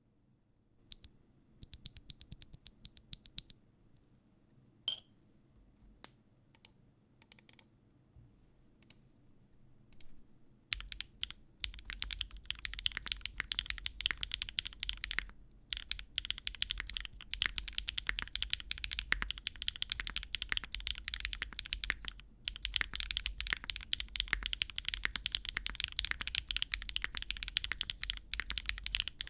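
Mechanical keyboard with lubed HMX Egg Yolk switches being typed on, fairly loud and high-pitched clacks. Slow single keystrokes for the first ten seconds or so, then fast continuous typing with a couple of brief pauses.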